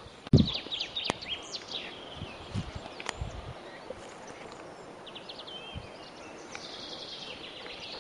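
Small songbirds chirping and calling, with several short high chirps and trills. A sudden low thump comes just after the start, and a few softer low thuds follow.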